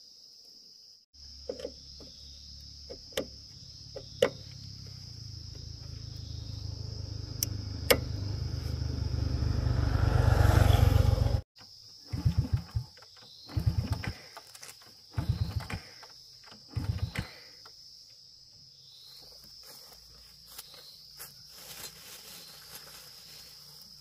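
Underbone motorcycle's small single-cylinder engine running and getting louder for about ten seconds before it cuts off sharply, then four short bursts of the engine catching and dying, a second or so apart. The fuel tap has been turned half closed, too little fuel reaches the engine to keep it running. Crickets keep up a steady high trill behind it.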